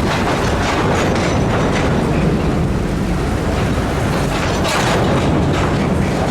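Canadian Pacific freight train rolling slowly through floodwater over submerged track: a loud, steady rumble of wheels on rail with irregular clicks of wheels over rail joints, mixed with water being pushed and washed aside.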